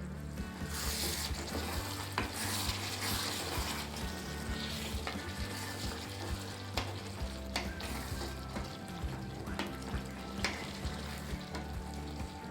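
Chicken gravy sizzling in a pan as it is stirred, with a spoon now and then clicking and scraping against the pan; the sizzle comes up about half a second in.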